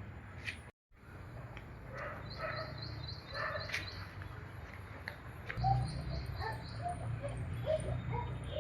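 A bird chirping in quick runs of repeated high notes, with scattered shorter calls, over a steady low hum.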